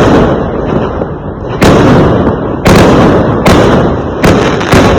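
Fireworks going off: six loud, sharp bangs roughly a second apart, each trailing off in a rumbling echo.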